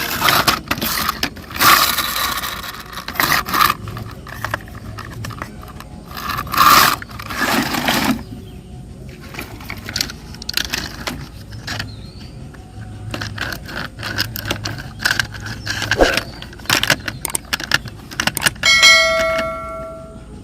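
Hard objects clattering, knocking and scraping, with rapid clicks throughout and louder rattling in the first half. A short ringing tone sounds about a second before the end.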